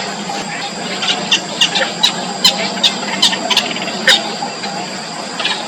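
Yellow bittern chicks calling in the nest: a quick run of short, sharp, high squeaks and chips, several a second, the typical begging of nestlings being fed.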